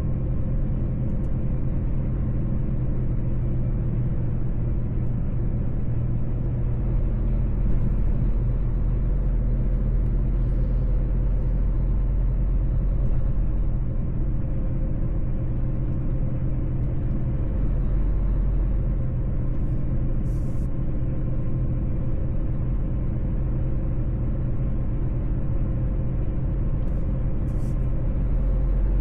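Mercedes-Benz truck driving at a steady speed: a constant low engine drone with road rumble, without change in pitch or level.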